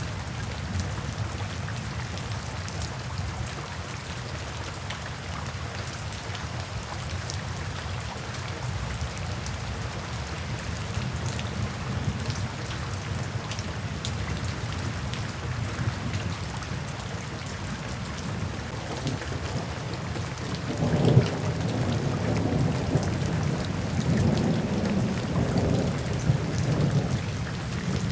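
Steady rain falling, with scattered individual drops ticking. About twenty seconds in, thunder breaks with a sudden crack and rolls on as a low rumble that swells and fades over the rain.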